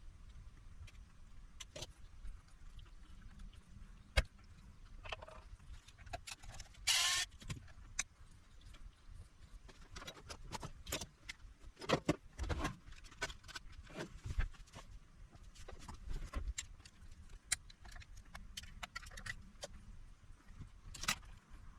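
Scattered light clicks, taps and metallic clatter of small tools and parts being handled, with a short scraping sound about seven seconds in and a cluster of louder clicks around the middle.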